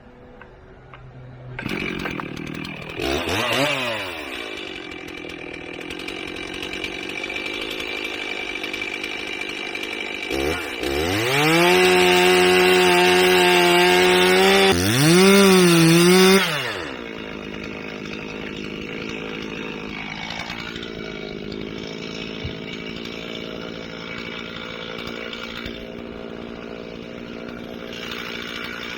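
Two-stroke chainsaw starting up about two seconds in, idling, and briefly revving. About halfway through it revs hard at a high, steady pitch for several seconds, dips once, then drops back to idle.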